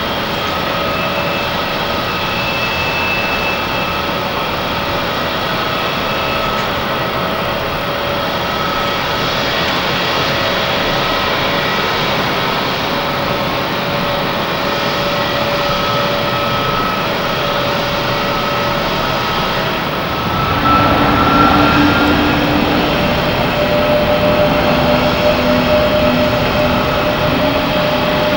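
Jet airliner engines running with a steady noise and several steady whining tones. About twenty seconds in the sound grows louder, with one whine rising in pitch and a low hum setting in.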